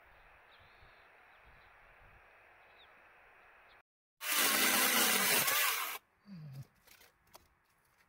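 An electric saw runs loud for about two seconds, starting about four seconds in, then its motor winds down in a short falling tone. Before that there is only faint outdoor ambience.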